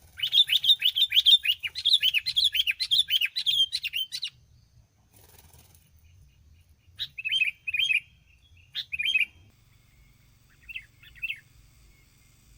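Sooty-headed bulbul giving a fast, loud run of chattering calls for about four seconds. After a pause come three shorter bursts of the same kind of calls.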